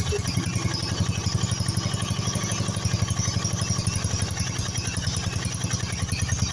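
Briggs & Stratton small engine of a racing riding mower, running steadily on its freshly cleaned and rebuilt carburetor, with a fast, even pulse of firing strokes.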